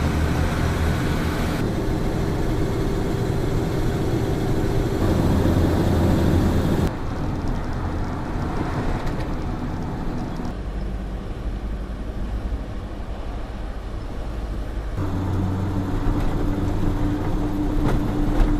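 Truck engine running with road noise while driving. The engine note and level shift abruptly several times.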